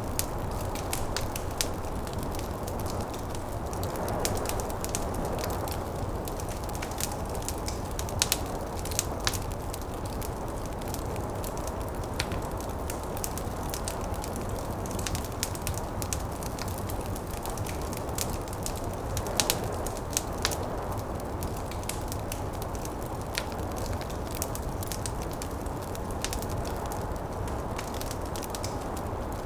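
Wood fire crackling with frequent sharp pops, over a steady low rush of snowstorm wind.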